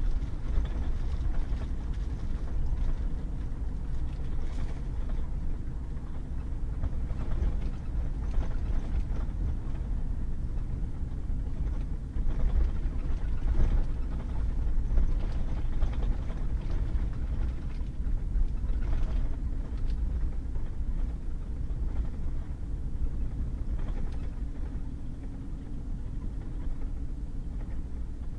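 Pickup truck driving on a wet gravel and mud road: a steady low rumble of engine and tyres, with scattered short knocks from stones and bumps.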